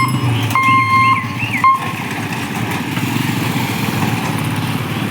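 An electronic warning beeper sounds in long beeps, twice, and stops about a second and a half in. Under it is a steady low rumble of vehicle engines, with a few short chirps.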